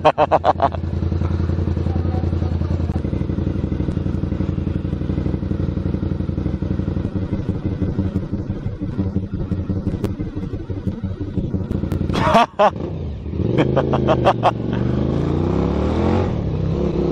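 Motorcycle with a very loud exhaust running steadily. About twelve seconds in it is revved: a sharp burst, then the engine pitch rises and falls before settling back to a steady run.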